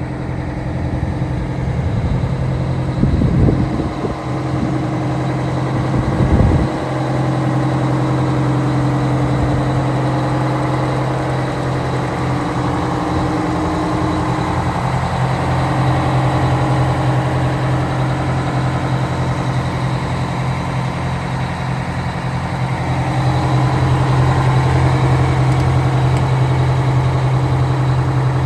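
Big diesel truck engine idling steadily with an even low pulse, the 500 hp 8V92 Detroit turbo diesel of an Oshkosh M1075 10x10 hook lift truck. Two short knocks stand out a few seconds in, and the engine gets a little louder near the end.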